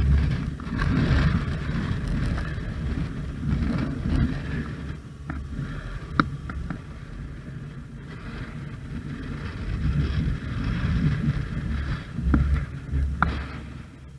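Motorcycle on the move: a rumbling, surging low noise of engine and wind buffeting the microphone, with a few sharp clicks.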